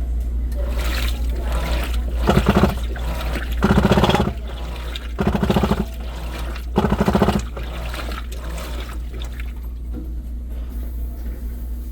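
Washing machine running a wash cycle over a steady low hum, with four short, loud rattling-grinding bursts about a second and a half apart in the first part, then just the hum. The bursts are the noise the owner of this new washer calls a stuck noise.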